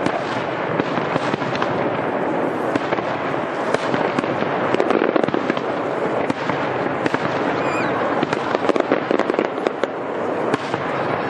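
Fireworks going off in a dense, continuous barrage of rapid crackling and popping. A faint falling whistle comes about eight seconds in.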